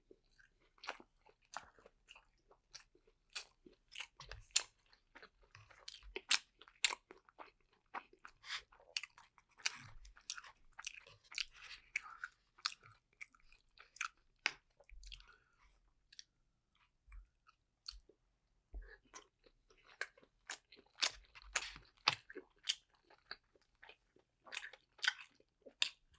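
A person chewing a steamed vegetable-and-mushroom dumpling close to the microphone, with many sharp, irregular mouth clicks, and a brief pause about two-thirds of the way through.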